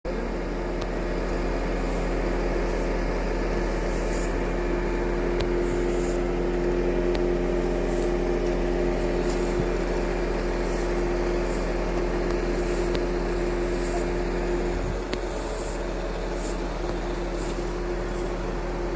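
Two-stroke chainsaw running steadily at high revs as it cuts into a large weeping willow trunk, with a brief change in its tone near the end.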